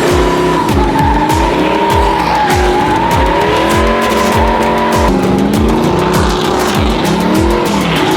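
Tires squealing continuously in a burnout, a wavering high squeal, under music with a deep, evenly repeating bass beat.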